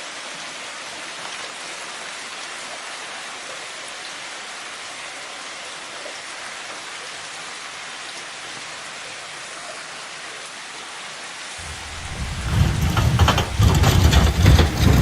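Steady hiss of storm noise, then about twelve seconds in a much louder, gusty low rumble sets in, with irregular knocks.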